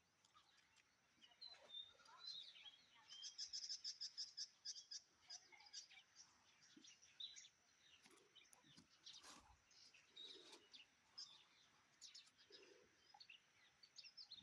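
House sparrows chirping faintly, a scatter of short calls with a quick run of rapid chirps about three to five seconds in.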